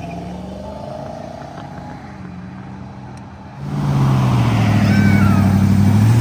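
Car engines: a moderate engine rumble, then about three and a half seconds in a much louder car engine comes in sharply under hard throttle as a car accelerates away, its pitch dipping and climbing again near the end.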